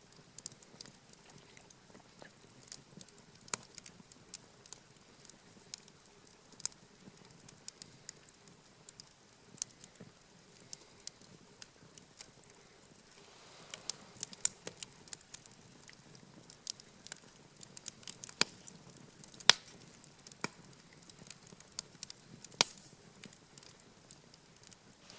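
Wood campfire crackling, with irregular sharp pops over a low background. There is a brief soft rush about halfway through, and the loudest pops come in the last third.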